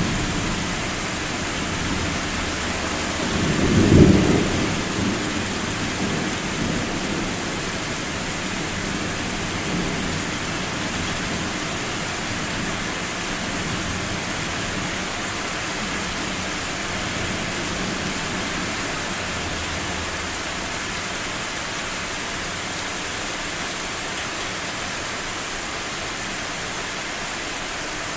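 Steady rain with one rumble of thunder that swells and peaks about four seconds in, then dies away over a couple of seconds.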